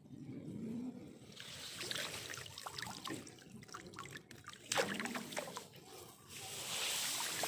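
Water splashing and trickling in short irregular bursts, with a sharper splash about five seconds in.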